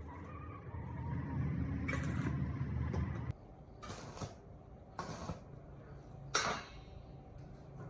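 A low mechanical rumble that cuts off suddenly about three seconds in, followed by four sharp clicks or knocks; the last knock is the loudest.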